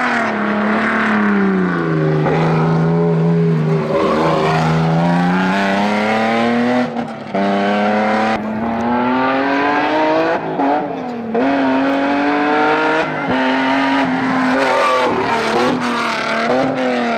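Rally-prepared car engine driven hard on a hill climb. Its pitch climbs, then drops several times as it changes gear and lifts off, with brief dips in level about seven, ten and thirteen seconds in.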